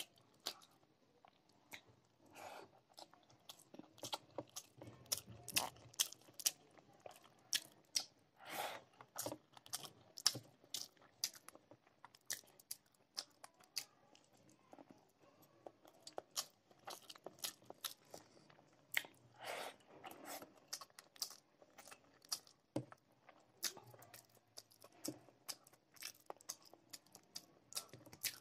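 Close-miked eating sounds of rice with egg curry eaten by hand: chewing with many short, sharp mouth smacks and clicks at irregular intervals.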